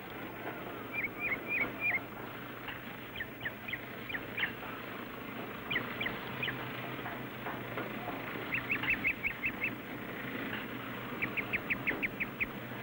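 Bird calls: quick runs of four to six short, high chirps, repeating every couple of seconds, over a steady hiss and low hum from the old soundtrack.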